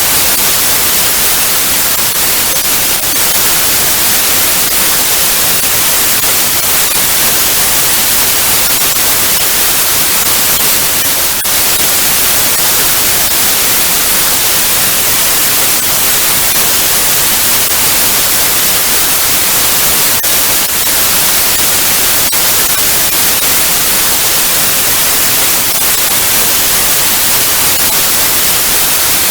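Television static: a steady, loud hiss of white noise, brightest in the highs, with brief faint crackles here and there.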